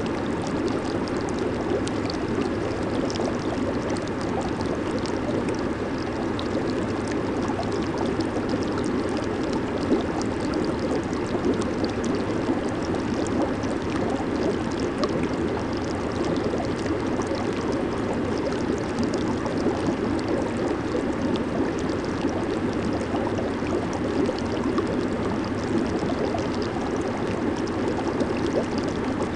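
Jacuzzi water churning and bubbling steadily under its jets, a continuous gurgling rush with fine bubbly crackle.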